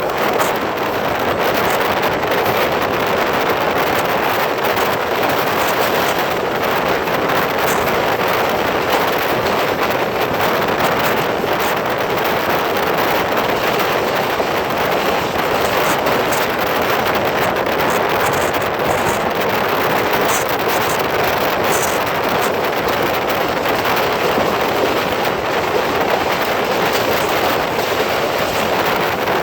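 Passenger train rolling past at speed: a steady rush of wheels on rails with a rapid, irregular clatter. Wind buffets the microphone throughout.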